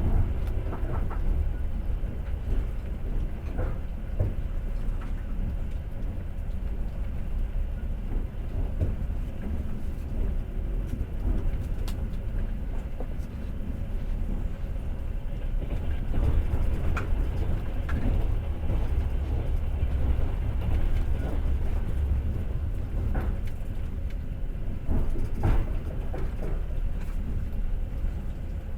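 Passenger train running along the track: a steady low rumble with scattered knocks and clacks from the wheels on the rails.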